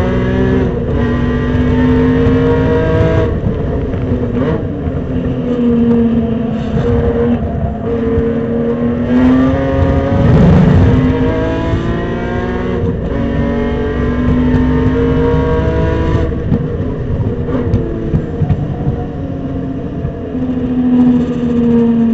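Supercharged BMW E46 M3's 3.2-litre straight-six at full-throttle race pace, its pitch climbing through the revs and dropping at gear changes and lifts several times over. A brief low rumble breaks in about halfway through.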